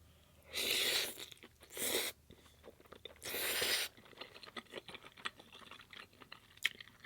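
A person eating a mouthful of vegan spaghetti close to the microphone: three short, noisy mouth sounds in the first four seconds, then soft, wet chewing clicks.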